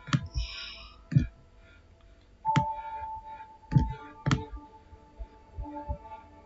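A few sharp clicks and knocks, several spaced about a second apart, over a faint steady tone.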